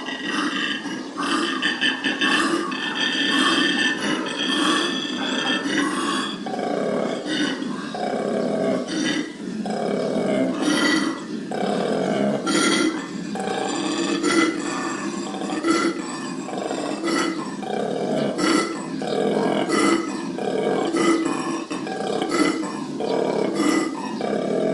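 Koala bellowing: a long run of deep, rasping pulses, repeating roughly once a second.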